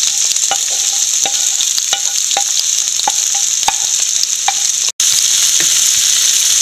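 Sliced onions, green chillies and garlic sizzling as they go into hot oil in a frying pan, with light clicks and taps, about two a second, from the plate and a wooden spatula against the pan as they are pushed in and stirred. The sound cuts out for an instant a little before the end.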